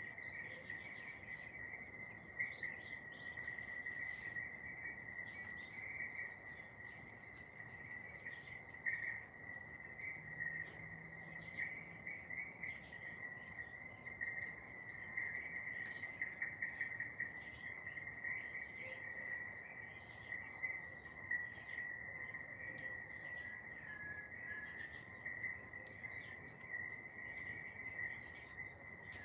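A steady high-pitched insect trill, with short bird chirps and calls scattered over it.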